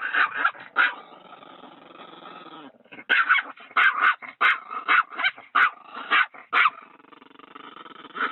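A dog growling and barking: a few barks at the start, a growl, then a quick run of about ten barks, roughly two a second, before it settles back into a growl.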